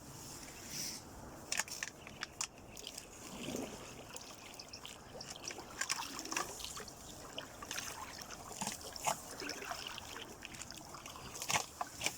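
Water dripping and sloshing with scattered light splashes and knocks, the sound of a wet fishing net being hauled aboard a small boat.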